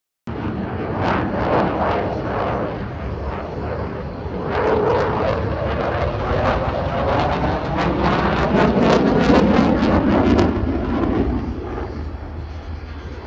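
Eurofighter Typhoon jet fighter passing in a display, its engines a loud, crackling noise that grows to its loudest about two-thirds of the way through and then eases off.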